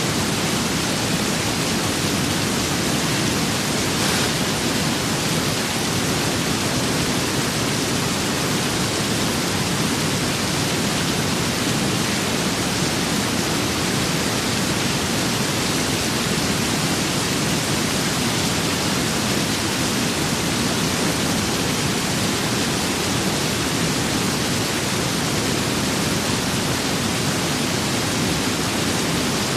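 Steady rain with wind, an even, unbroken hiss with no thunder or separate drops standing out.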